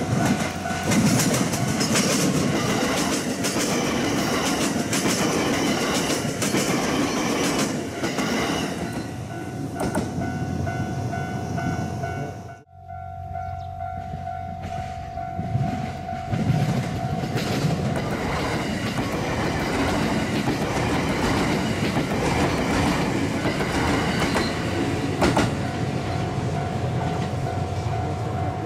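JR West 287 series electric limited express train running through the station, its wheels clacking over rail joints with a steady rumble; after a brief break about halfway, the train is heard again from a distance, its rumble growing as it approaches. A steady high tone sounds alongside for most of the time.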